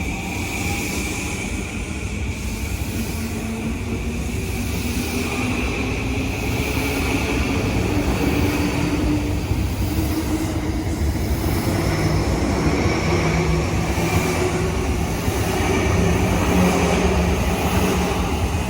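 JR East E235 series 1000 electric train pulling away and accelerating: the inverter-driven traction motors whine in several tones that climb slowly in pitch, over a growing rumble of wheels on rail. It gets louder as the train picks up speed.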